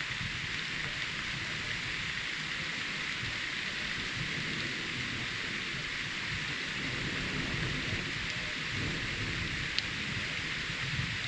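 Steady rain falling during a thunderstorm, with a low rumble of thunder underneath that swells a little in the second half.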